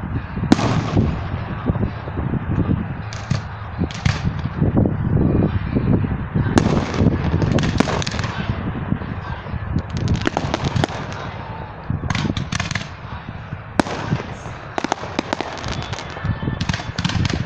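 Aerial fireworks display: shells launching and bursting overhead in a rapid run of sharp bangs, with dense crackling between them.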